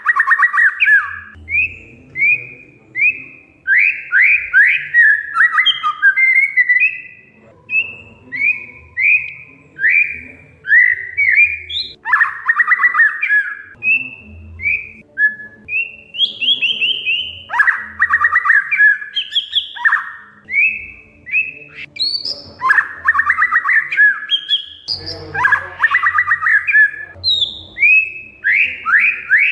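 Oriental magpie-robin (kacer) singing without pause: a quick string of clear whistled notes, most sliding downward, broken several times by harsh rattling chatter phrases.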